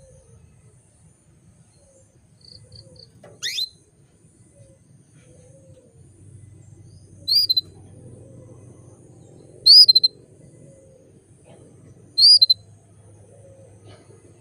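Female canary giving short, sharp contact calls, four single chirps each dropping quickly in pitch and spaced about two and a half seconds apart, with three faint short peeps before the first. It is the call of a hen in breeding condition calling to males.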